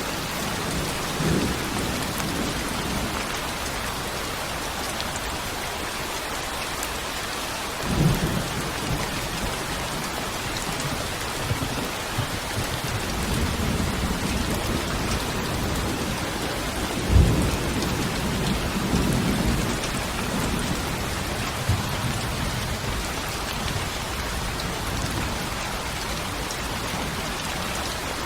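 Steady heavy rain hissing, with low thunder rumbling several times: a swell about 8 seconds in, a longer rumble through the middle with a sharper crack about 17 seconds in.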